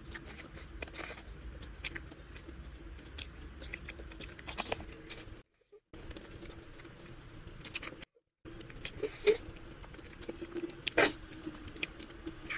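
Close-miked eating sounds: soft chewing, lip smacks and small wet clicks from someone eating saucy instant noodles and rice cakes, with a couple of louder smacks near the end. The sound cuts to silence twice for a moment.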